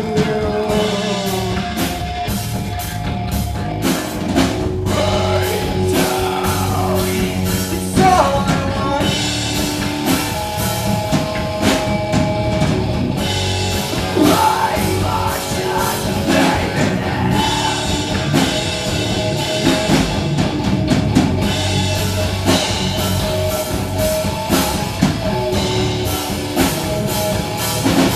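Live rock band playing loudly: drum kit, electric guitar and a singer, with a steady dense sound and regular drum hits.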